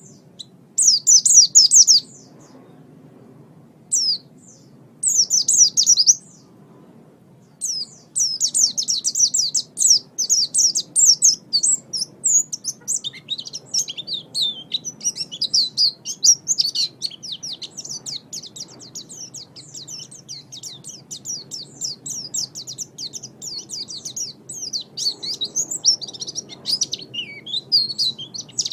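White-eye (pleci) singing: short bursts of fast, high twittering in the first few seconds, then a near-continuous run of rapid high notes from about eight seconds in.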